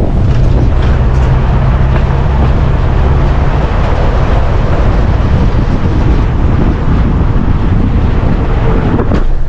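Car driving, with a steady engine and road-noise drone.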